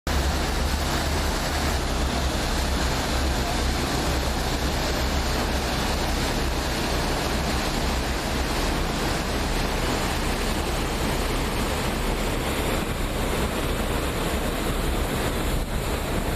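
Steady wind buffeting the microphone over rushing water and a low, constant rumble on board a moving boat.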